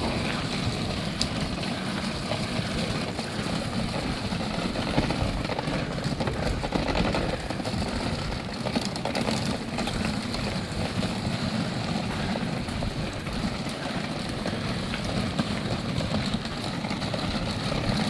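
Steady rain falling with a vehicle engine idling underneath.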